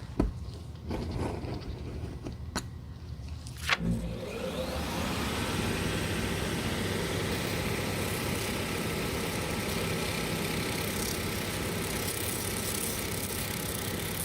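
A few sharp clicks and taps, then about four seconds in an electric motor-driven machine switches on, its whine rising as it spins up, and runs steadily.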